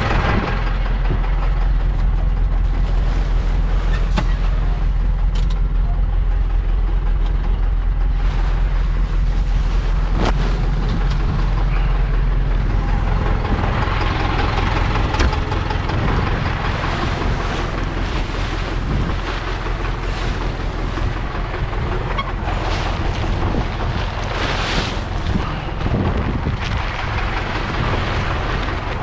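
Farm tractor engine running steadily, with wind noise on the microphone; the engine note changes about twelve seconds in.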